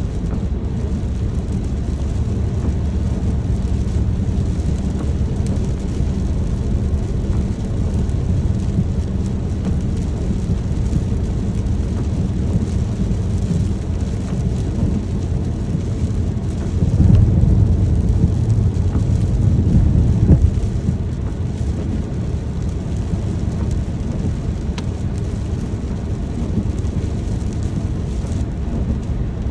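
Steady rain with a low rumble under it. The rumble swells louder for about three seconds a little past the middle.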